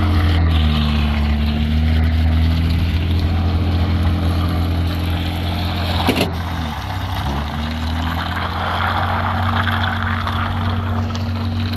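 Vehicle engine running with a steady deep hum. Its pitch eases down about a second in and dips briefly around seven seconds before settling again. A rushing noise grows louder in the second half.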